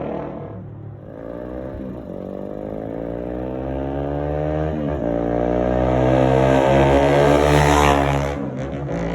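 Honda Rebel 250's single-cylinder engine through a Diablo aftermarket muffler, accelerating: the revs climb, drop sharply about five seconds in as at a gear change, climb again, then fall off near the end.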